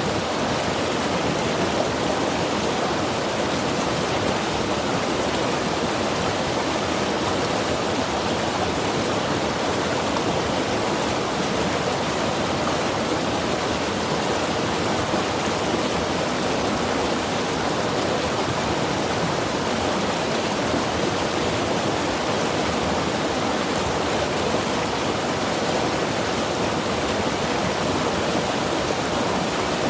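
Mountain river rushing over rocks, a steady, even roar of water.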